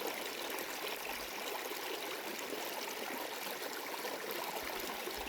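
River water running steadily, an even rushing hiss with no pitch or rhythm.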